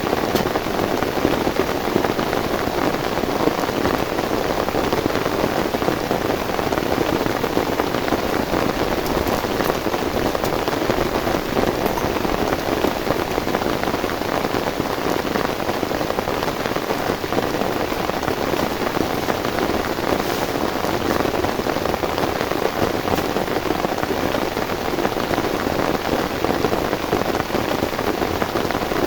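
Heavy rain falling in a steady, dense patter of drops with no let-up.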